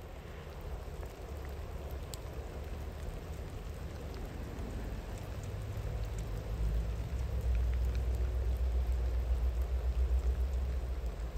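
Steady rain falling, with the low rumble of a distant train swelling about halfway through and easing near the end.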